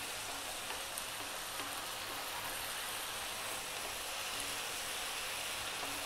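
Lamb and sliced onions sizzling steadily in oil in a nonstick frying pan over above-medium heat, with a wooden spoon stirring through them and a few faint taps.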